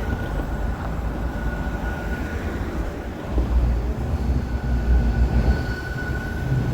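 A train running on rails: a steady low rumble that swells in the middle, with a thin high whine coming and going above it.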